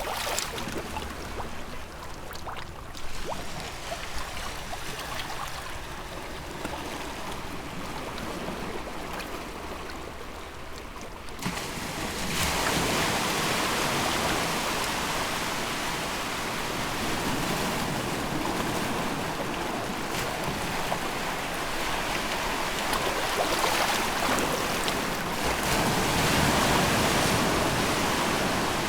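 Sea water at the shore: gentle lapping and trickling with small clicks at first. About eleven seconds in it switches abruptly to a louder, fuller, steady wash of surf hiss.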